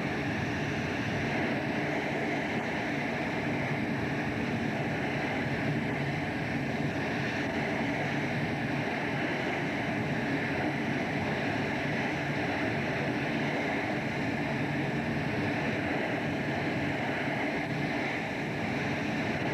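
Fishing boat at sea: its engine running steadily under a constant rush of wind and waves.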